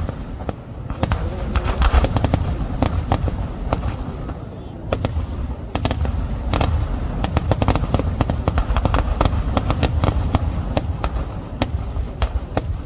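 Fireworks barrage: a dense, rapid run of sharp bangs and crackles over a constant rumble, thinning briefly about four seconds in before picking up again.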